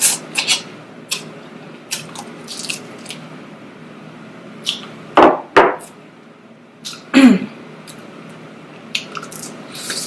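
Close-miked eating of a seafood boil: scattered clicks and cracks of shells being broken and handled, with a few louder wet chewing or sucking sounds about five and seven seconds in.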